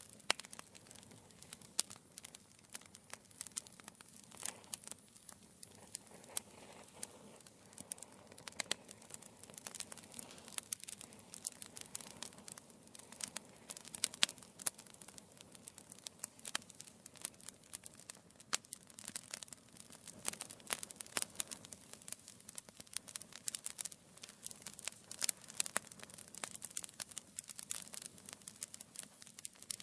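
Wood fire burning in a fireplace: burning logs crackling with dense, irregular sharp pops over a soft steady hiss.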